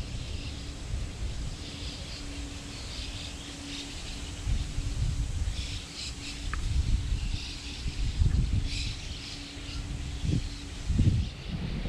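Birds chirping in short repeated bursts over a low wind rumble on the microphone, with a faint steady hum underneath.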